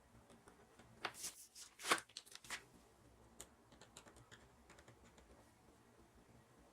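Plastic food packaging being handled: a quick run of crisp rustles and clicks about a second in, then scattered light ticks.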